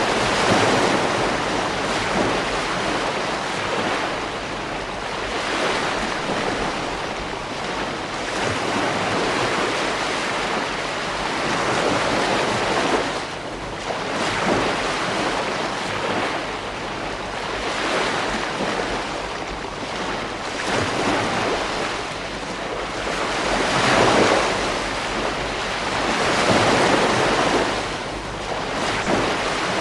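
Ocean waves breaking on a beach, the surf swelling and easing every few seconds, with some wind on the microphone.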